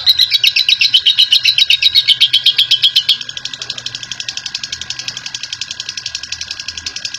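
Lovebird's long 'ngekek' chatter: a fast, unbroken run of shrill repeated notes, about eight a second. About three seconds in it cuts abruptly to a quieter run of similar rapid notes.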